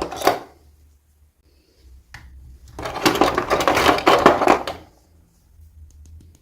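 Packaging being handled while a toy is unboxed: a short crackling rustle, then a denser crinkling rustle of about two seconds, with a few small clicks.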